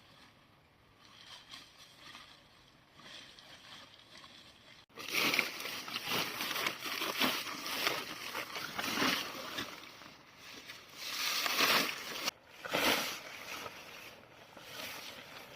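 Water sloshing and splashing, faint at first, then starting abruptly and loudly about five seconds in, with uneven surges.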